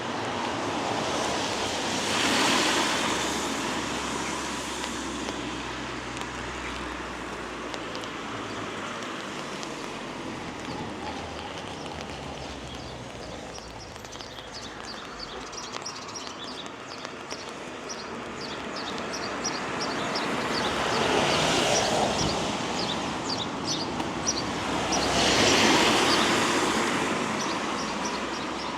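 Cars passing on a wet road, their tyres hissing as each swells and fades: one about two seconds in and two close together near the end. A low steady engine hum runs under the first half.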